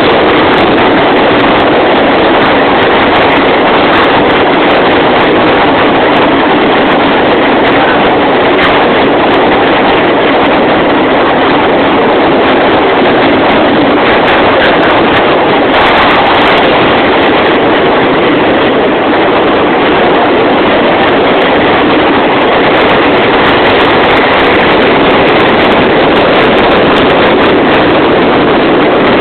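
Train running through a long railway tunnel: a loud, steady noise that does not let up.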